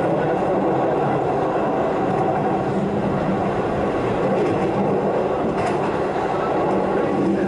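Keihan Railway electric train running at speed, heard from inside the passenger car: a steady rumble of wheels on rail with a low motor hum.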